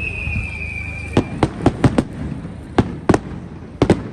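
Fireworks display: a high whistle slides slightly down in pitch and stops about a second in. After it come about nine sharp bangs at uneven spacing, several in quick pairs.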